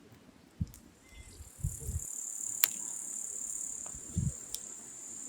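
Firewood burning, with a few sharp crackling pops. A steady high-pitched hiss starts about a second in, and there are a few dull low thuds.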